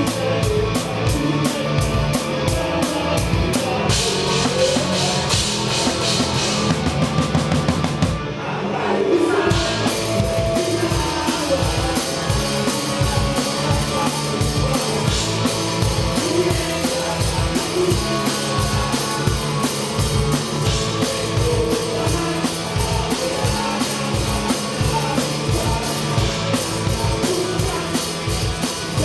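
Live rock band playing a song, with the drum kit loud and close: a steady beat of kick, snare and cymbals over bass and guitar. About eight seconds in the cymbals drop out briefly before the full beat comes back.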